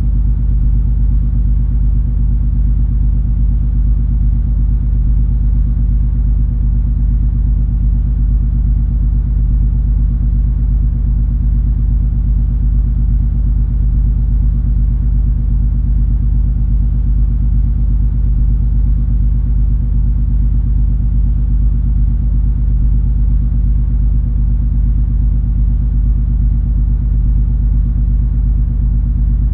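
Steady low rumble and hum of the cruise ferry MS Color Fantasy's engines and machinery, heard aboard while the ship is under way. It holds unchanged throughout, with a few steady droning tones over a deep rumble.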